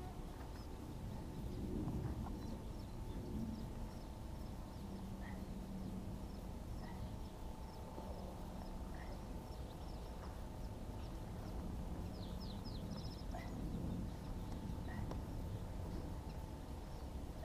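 Birds calling over open grassland: short high chirps repeating every second or two, over a low steady rumble.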